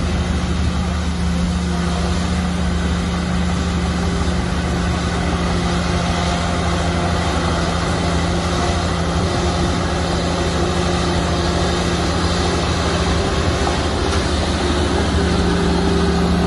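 Shantui bulldozer's diesel engine running steadily, a constant low drone with heavy mechanical noise over it.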